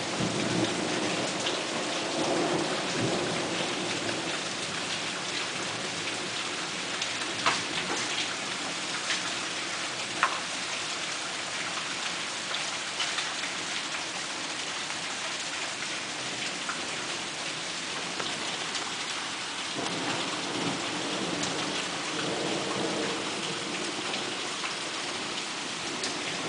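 Hail storm: a steady, dense hiss of hail and rain pelting down, with scattered sharper impacts of single hailstones, the clearest two about seven and ten seconds in. A low rumble swells near the start and again after about twenty seconds.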